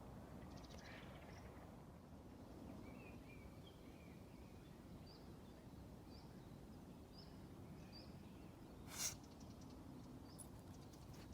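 Very quiet forest ambience with faint, distant bird chirps: scattered short high notes, and a run of them repeating about once a second in the middle. One sharp snap stands out about nine seconds in.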